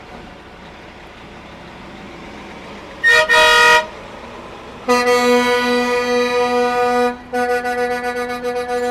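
Truck horns honking in a convoy over low engine and traffic rumble: a short blast about three seconds in, then a long, loud blast from about five seconds that breaks off briefly near seven seconds and resumes.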